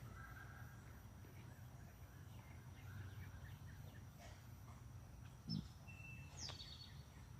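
Faint, scattered songbird chirps and calls over a steady low rumble, with a brief low thump about five and a half seconds in.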